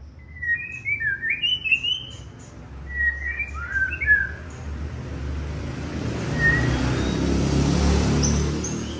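White-rumped shama singing quick, warbling phrases for the first four seconds or so. From about five seconds in, a rushing noise with a low rumble swells up and becomes the loudest sound, with a few faint high notes over it.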